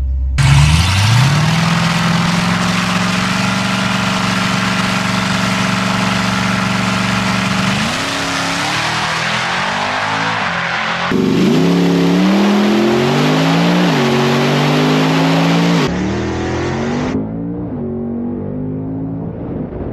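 A car engine at full throttle. It jumps to high revs about half a second in and holds a steady pitch for several seconds. Later it climbs in rising steps, each broken by a drop in pitch as it shifts gears, and the sound changes abruptly twice near the end.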